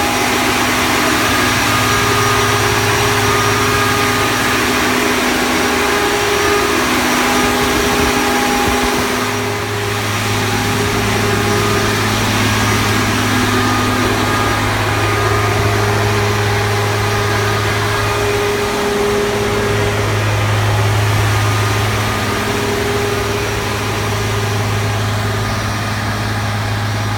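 Scania diesel generator set running at a steady speed, a loud constant engine drone with a fixed pitch.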